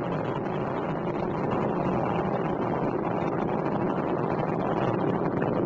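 Launch rumble of Space Shuttle Endeavour's solid rocket boosters and main engines in ascent: a steady, dense rumble that grows slightly louder about a second and a half in.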